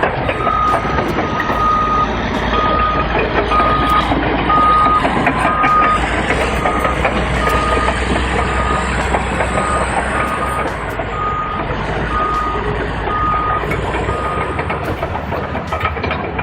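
Bulldozer's reversing alarm beeping about once a second over the steady noise of the working machine; the beeping stops near the end.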